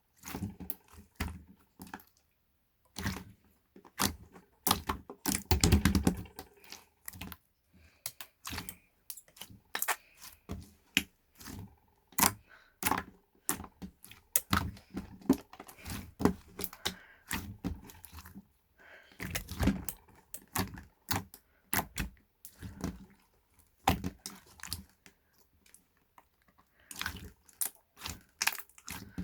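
Irregular close-up clicks and taps, some in quick clusters, with a few heavier thuds.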